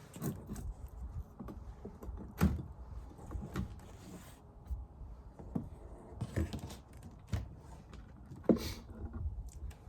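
Wooden beehive frames and boxes being handled: irregular knocks, clicks and light scraping, with two sharper knocks, one about two and a half seconds in and the loudest about eight and a half seconds in.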